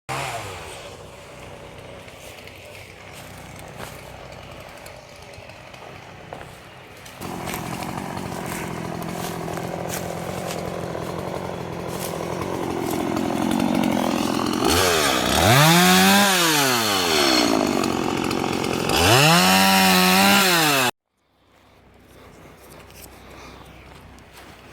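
A motor-driven power tool running, louder after about seven seconds, then twice surging up in pitch and falling back before cutting off abruptly.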